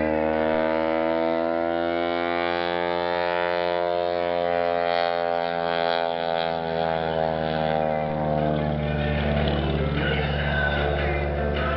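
Aerobatic biplane's piston engine and propeller droning overhead, its pitch slowly rising and then sinking back as it manoeuvres, over a steady low hum.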